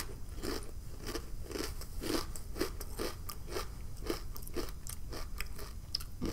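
A person chewing a mouthful of crunchy jalapeño cheddar potato chips with mouth closed, crunching steadily at about two chews a second.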